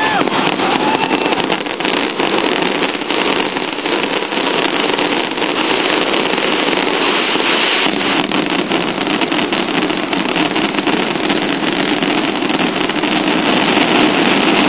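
Fireworks finale barrage: a rapid, unbroken run of bangs and crackling from many shells and ground effects firing at once, with a brief whistle near the start.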